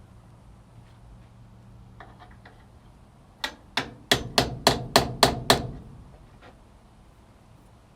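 Hammer striking a chisel, eight quick sharp blows in about two seconds, after a few faint taps, working to lift a door's hinge pin.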